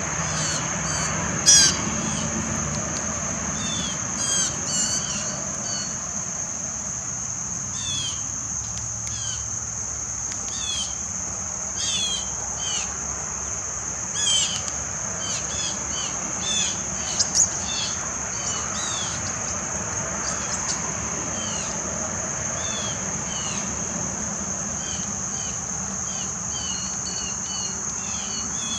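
A steady, high, continuous insect chorus, with many short bird chirps and calls scattered throughout and a few louder brief calls among them.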